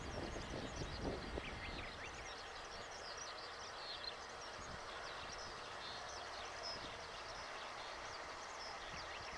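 Small birds chirping over a steady outdoor background, with a brief low rumble in the first second or so.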